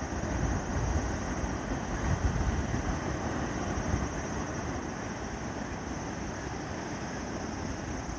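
Rough Pacific surf ahead of an approaching typhoon: a steady rush of breaking waves, with wind buffeting the microphone in low gusts during the first few seconds.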